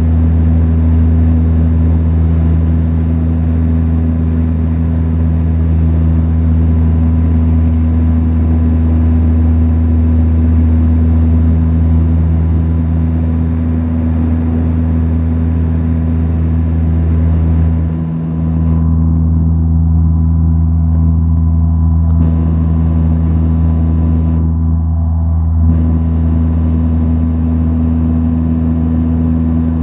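Steady cabin drone of a Saab 340B's twin turboprop engines and propellers in flight: a loud low hum made of a few strong even tones over a rushing hiss. The level dips briefly about eighteen seconds in.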